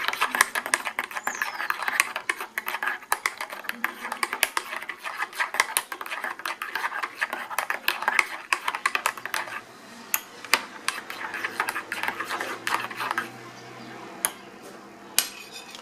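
Teaspoon clinking rapidly against a mug as sugar is stirred into black coffee, then a few single clinks near the end.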